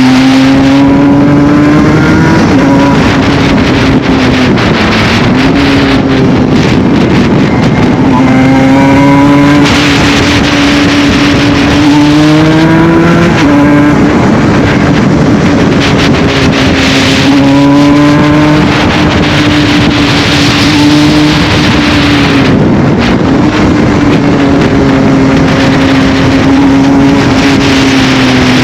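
Aprilia RS 125 two-stroke single with an Arrow full exhaust, running hard at high revs. Its pitch holds mostly steady, dipping briefly and recovering three times, with rising tones in between.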